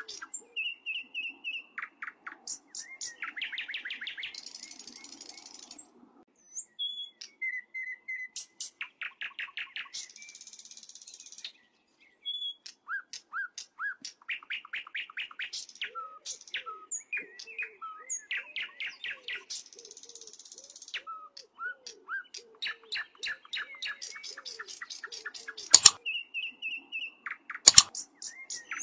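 A songbird singing a long, varied song of rapid trills, short whistled notes and buzzy rolls, broken by brief pauses. Two sharp clicks near the end stand out as the loudest sounds.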